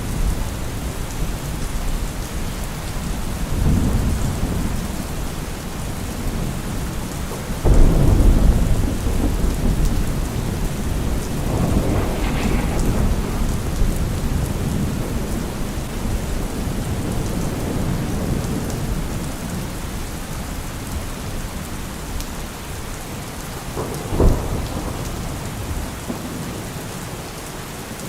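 Steady rain with thunder. A low rumble comes about four seconds in, a sudden loud thunderclap comes about a quarter of the way through and rolls on for several seconds, and a short sharp crack comes near the end.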